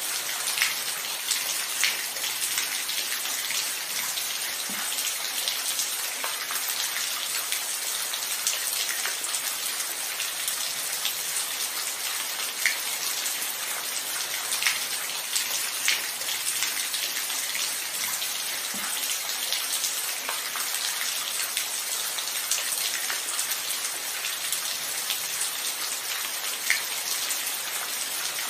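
Steady rain falling: a dense, even hiss with scattered louder individual drops striking close by, without thunder.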